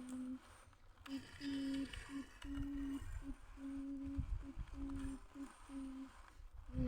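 Small electric motor of a toy vehicle whirring with a steady low hum, switched on and off in about eight short bursts after a brief pause.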